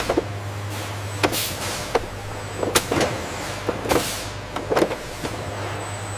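Packaging-line sounds: a steady low machine hum, with several irregular sharp clicks and knocks, some followed by brief swishing rustles.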